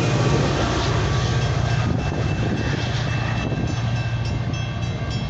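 Metra commuter train's F40PH diesel locomotive passing close, its engine's low drone slowly fading as it pulls away. From about three and a half seconds in, a crossing bell rings in quick, evenly repeated dings.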